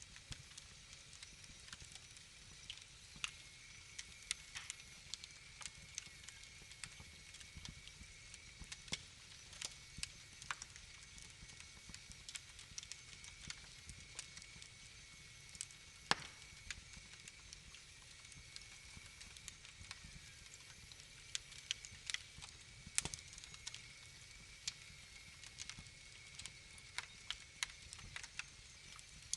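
Wood fire in a fireplace crackling over a soft steady hiss and low rumble. Irregular sharp pops and snaps come throughout, with a couple of louder ones.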